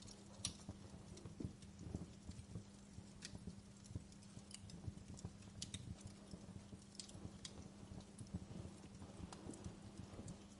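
Wood fire burning in a fireplace: faint, irregular crackles and pops over a low steady hum.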